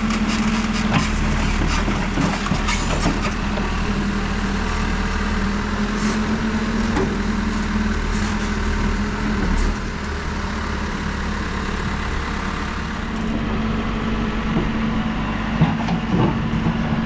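Diesel engine of a New Holland backhoe loader running steadily under working load, with a few short knocks and clanks from the digging gear. The engine note eases off slightly about ten seconds in.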